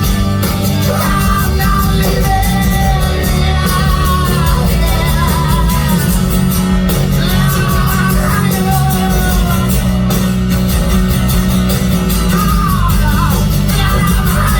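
Live rock band playing loudly, with guitars and drums and a voice singing over the top without clear words.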